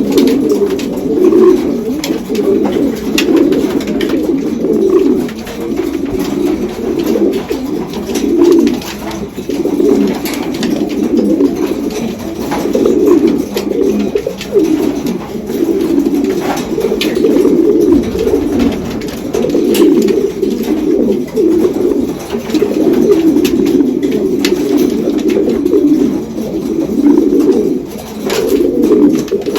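Domestic racing pigeons cooing without pause, several birds overlapping in a steady, pulsing chorus, the courtship cooing of newly paired birds in the breeding loft.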